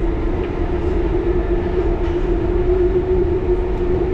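1938 Tube Stock train running at a steady speed, heard from inside the carriage: a continuous low rumble with a steady humming tone.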